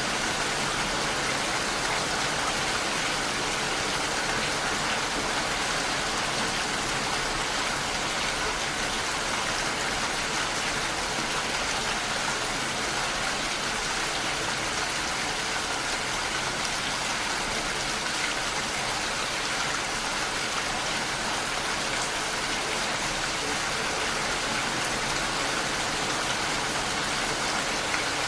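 Steady rain falling, an even hiss of dense raindrops with no thunder or breaks.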